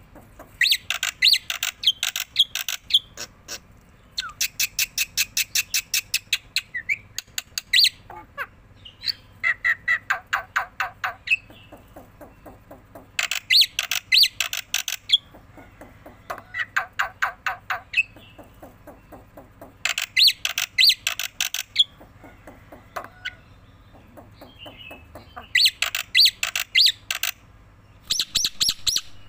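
Black-winged myna (jalak putih) singing vigorously in about eight bouts of rapid, harsh chattering notes, each bout one to three seconds long, with short pauses between them.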